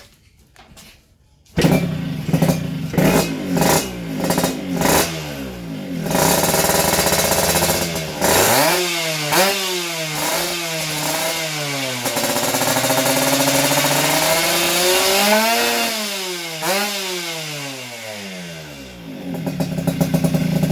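Yamaha RX-King two-stroke single-cylinder engine running through a newly fitted Kolong Kobra aftermarket exhaust: it starts suddenly about a second and a half in, is blipped a few times, then revved up and down repeatedly in rising and falling sweeps, with one longer held rev before settling back toward idle near the end.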